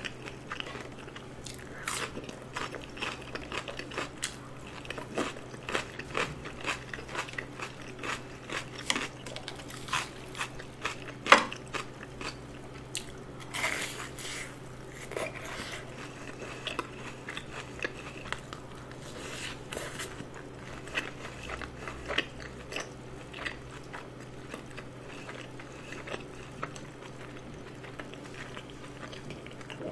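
Close-miked chewing and crunching of a crispy fried cheese ball and seasoned fried chicken, with frequent crisp crunches and one sharp loud crunch about eleven seconds in. A low steady hum runs underneath.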